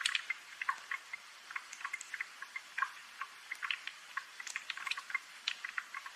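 Light rain: a soft steady hiss with many small, irregular drips and ticks, several a second.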